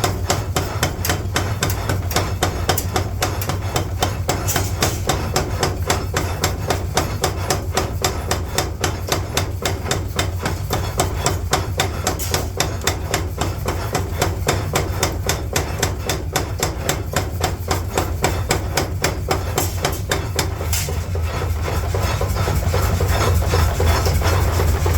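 Hammer blows on steel at a steady rhythm of about three a second, over a constant low machine hum. Near the end the blows fade and a steadier mechanical noise grows louder.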